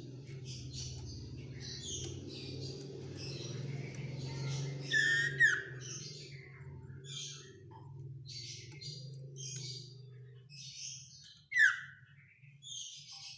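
Common iora (cipoh) singing: a rapid run of short high chirps and trills, broken by two loud sweeping whistles, about five seconds in and again near the end.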